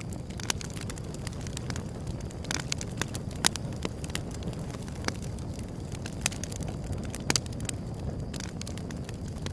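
Wood fire burning, a steady low rumble of flames with irregular sharp crackles and pops, the sharpest at about three and a half and seven seconds in.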